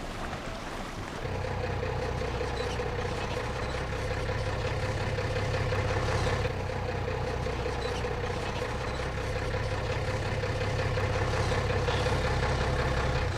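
A heavy engine idling steadily, starting about a second in.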